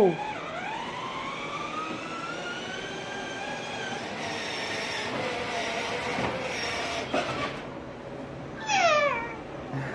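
Electric ride-on toy car's small motor whining as it drives, its pitch rising slowly over several seconds, with a knock or two; near the end a short, high squeal that falls in pitch.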